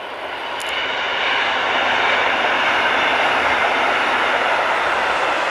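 Red double-deck regional passenger train passing on the railway, a rushing of wheels on rails that swells over the first two seconds and then holds steady and loud.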